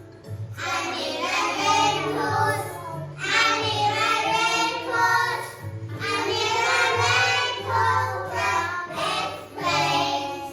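Children singing a song together over a backing music track with a steady bass line, the sung phrases pausing briefly a few times.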